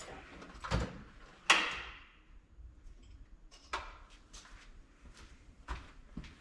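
Metal tools being sorted by hand in a tool drawer: a loud metallic clank with a short ring about a second and a half in, then scattered lighter clicks and clinks as punches are picked through.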